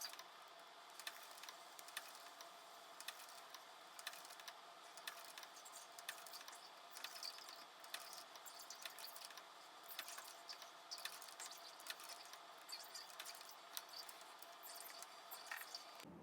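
Faint, irregular small clicks and taps of handwork, a few to several a second, over a low steady hiss.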